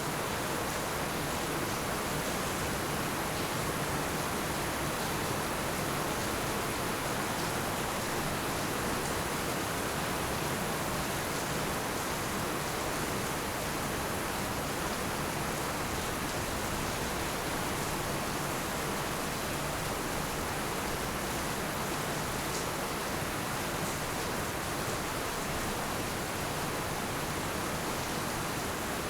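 Heavy rain falling steadily on roofs and ground, a dense even hiss with no thunder, with a few faint drop ticks here and there.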